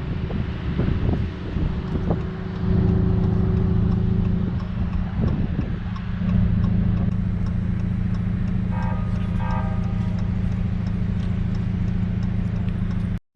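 Car engine running at a steady drone while cruising, with two short high tones about nine seconds in.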